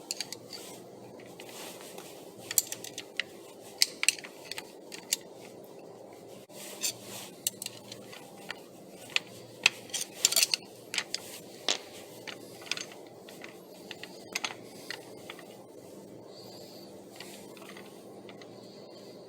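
Steel bearing parts clinking and tapping against each other in irregular sharp clicks as a rolling bearing is taken apart by hand, dying away for the last few seconds over a steady low hum.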